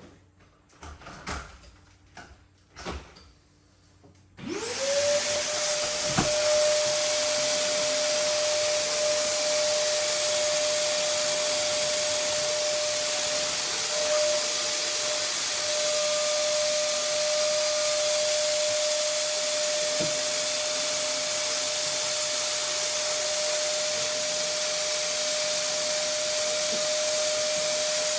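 A few knocks, then a DeWalt wet saw's electric motor spins up about four seconds in and runs at a steady high whine for the rest of the time.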